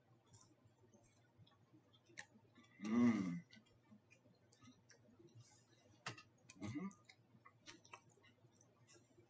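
A person chewing a mouthful of chewy granola bars, with faint wet mouth clicks scattered throughout. Two short hums come from his throat, a louder one about three seconds in and a softer one near seven seconds.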